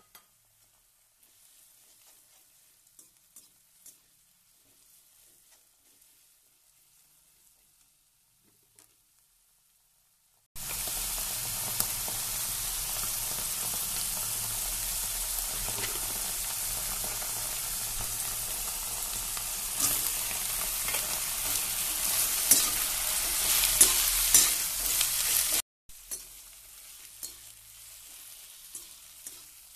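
Oil sizzling in a wok as algae and vegetables fry, with a metal slotted spoon stirring and scraping the pan. The first ten seconds are nearly silent with a few faint clicks. Then a loud steady sizzle starts abruptly, and the scrapes grow louder and more frequent before it cuts off. A quieter sizzle with stirring clicks follows.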